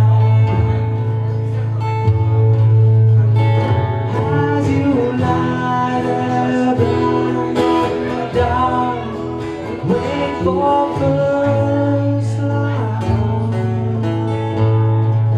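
Live band music in an instrumental break: acoustic guitar strumming over a low held bass, with a lead melody line on top. The bass drops out for a few seconds around the middle and comes back.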